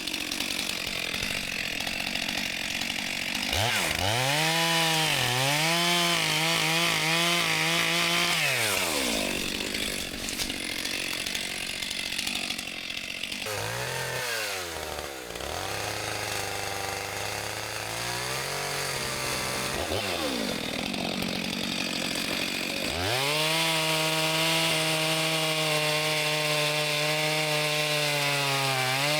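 Two-stroke chainsaw revved up to full throttle about three seconds in, its pitch wavering as it cuts wood. It drops back to a low, steady pitch midway, then is revved up and held again near the end.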